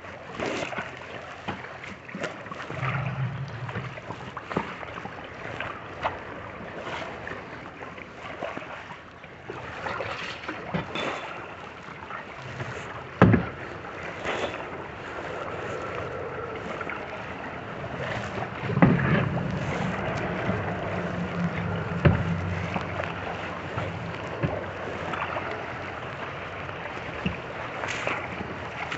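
Kayak paddling on open water: paddle blades dipping and splashing steadily, with a few sharp knocks, the loudest about 13 seconds in, and a low hum in places.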